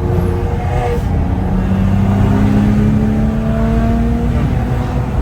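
Straight-piped BMW N55 turbocharged inline-six running under load. Its exhaust note climbs slowly in pitch, then drops away about four and a half seconds in.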